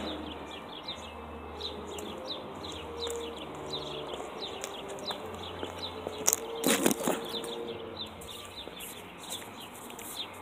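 Small birds chirping over and over outdoors, short falling chirps several a second, over a low steady hum. A brief louder clatter comes about two-thirds of the way through.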